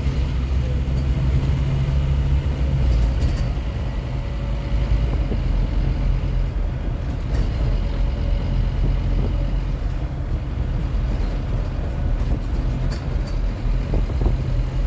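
Scania N230UD OmniCity double-decker bus's 9-litre five-cylinder diesel running under way, a steady low drone that is strongest for the first few seconds, with occasional light clicks and rattles.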